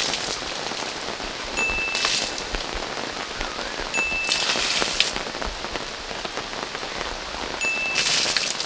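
Heavy rain on the fabric of an Alu-Cab 270 Shadow awning. Water pooled on the sagging awning is pushed off from below and gushes and splashes off its edge four times. The awning is holding water in the downpour.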